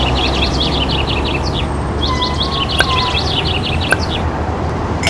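Birdsong: quick runs of high, falling chirps, about five or six a second, in two phrases of roughly two seconds each, over a steady low rumble. A short held tone and two small clicks come in the middle of the second phrase.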